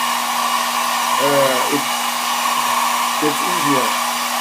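Hot-air blower running steadily, a constant blowing hiss with a low hum, heating the phone's front glass to soften the adhesive so the glass separates more easily.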